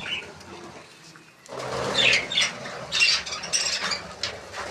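A flock of budgerigars chirping and squawking in short, rapid calls. The calls are quieter at first, then a burst of wing flapping about a second and a half in sets off denser chattering.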